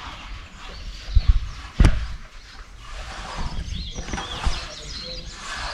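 Birds chirping and calling. There are low thumps a little over a second in, and a sharp knock just before two seconds.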